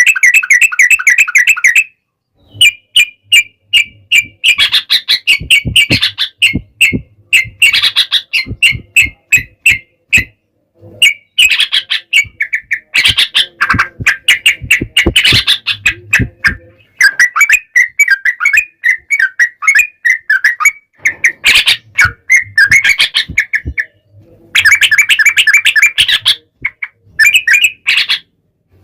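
Yellow-vented bulbul (trucukan) singing loudly in bursts of rapid, chattering notes, the 'ropel' style of song, broken by short pauses.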